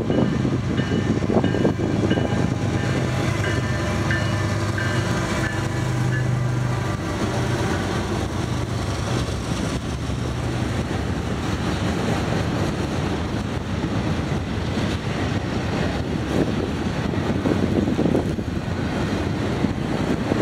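Norfolk Southern intermodal freight train passing: diesel locomotives run by with a steady engine hum for the first several seconds. Then comes the continuous rumble and clatter of double-stack container cars and trailer-carrying cars rolling over the rails.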